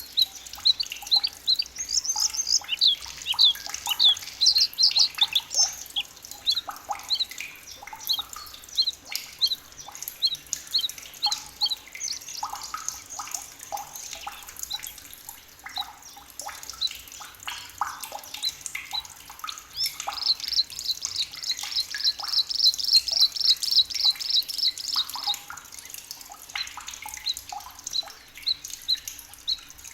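Several forest birds calling and singing: steady repeated short, high chirps, with a fast trill of evenly repeated notes, about four a second, lasting around five seconds in the second half.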